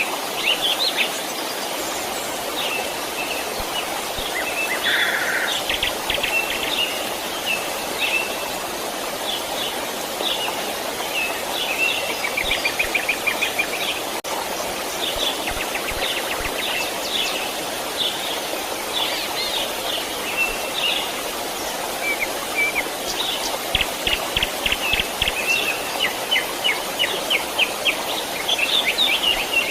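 Birds chirping and trilling over the steady rush of a stream. The short calls and rapid trills come in clusters, thickest in the second half.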